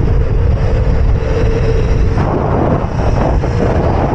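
Heavy wind buffeting on the microphone while riding, with the faint steady whine of the electric mini bike's motor that fades out near the end.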